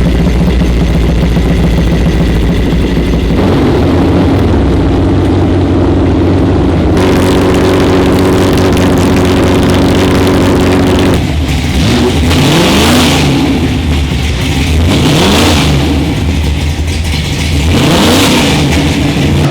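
Historic racing car engine running loudly, first at a steady speed, then revving several times from about eleven seconds in, its pitch rising and falling with each burst of throttle.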